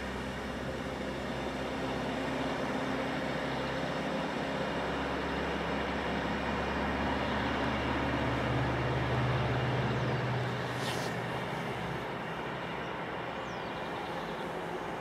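A DB Class 425 electric multiple unit running along the line: a steady rumble of wheels on rail with a low electric hum. The hum swells and then drops off about ten seconds in, and a brief sharp click comes just after.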